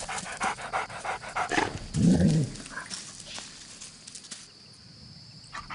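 Dingo panting and sniffing in quick short breaths, with a brief low vocalisation about two seconds in.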